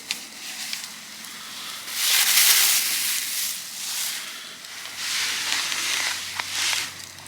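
Campfire crackling with sharp pops, broken by two longer rushes of hissing noise, the first about two seconds in and the second about five seconds in.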